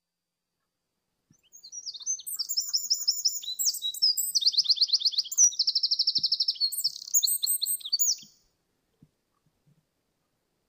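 Eurasian wren singing: one long song of about seven seconds, a rapid run of high notes and fast trills, starting about a second in.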